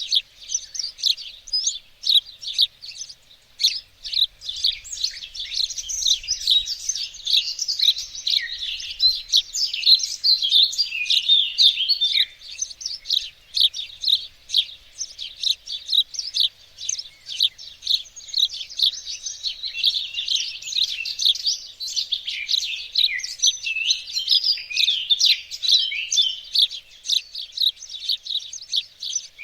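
Songbirds chirping and singing, a dense, unbroken run of quick, high, overlapping notes and trills.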